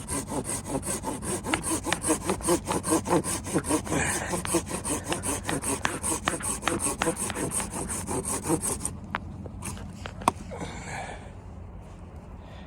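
Hand saw cutting through wood with quick, even strokes, about four or five a second, that stop about three-quarters of the way through; a single sharp click follows.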